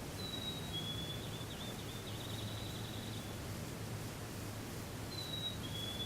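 A small songbird whistles a clear two-note phrase, a high note then a slightly lower one, at the start and again near the end, with a fast high trill in between. Under it runs steady outdoor background noise with a low hum.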